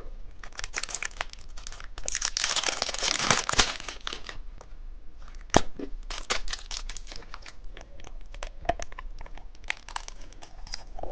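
Plastic candy wrapper crinkling and tearing as it is opened. The crackles run throughout, densest from about two to three and a half seconds in.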